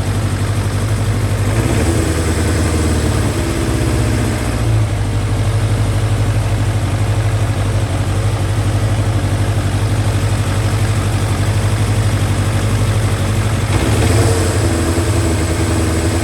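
Carbureted motorcycle engine idling steadily, its note shifting briefly twice. It has a vacuum leak at the intake boots, which the owner traces to a missing bolt, and runs ragged because of it.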